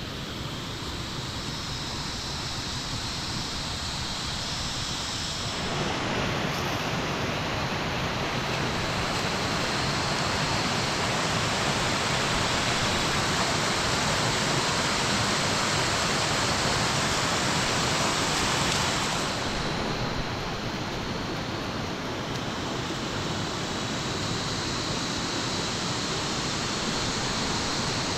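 Heavy rain falling, a steady even hiss that gets louder about six seconds in and eases a little near twenty seconds.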